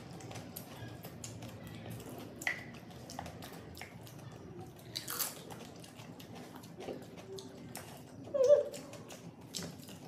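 Close-up eating sounds: chewing and crunching of crisp golgappa (pani puri) shells filled with spiced water, a run of small sharp cracks and wet mouth noises. A short hum from one eater comes about eight seconds in.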